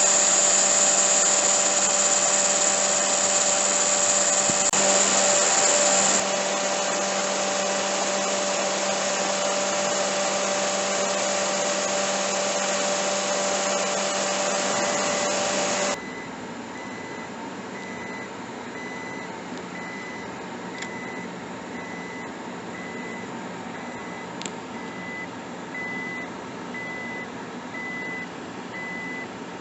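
Steady whirring machine noise with a few constant hum tones. It drops in level abruptly twice. In the later part a short high beep repeats about once a second.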